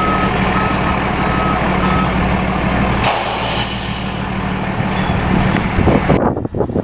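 Heavy truck's engine running while its reversing alarm beeps steadily, a little under two beeps a second, stopping about two seconds in. About a second later there is a hiss of air lasting about a second, like an air brake releasing. Near the end the engine sound cuts away to gusty wind on the microphone.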